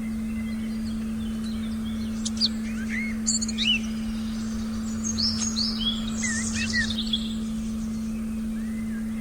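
Forest birds chirping in short rising and falling calls, busiest in the middle, over a steady low pure meditation tone.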